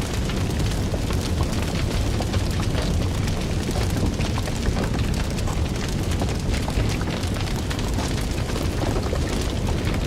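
Fire crackling: many small, irregular pops and snaps over a steady low rumble of burning.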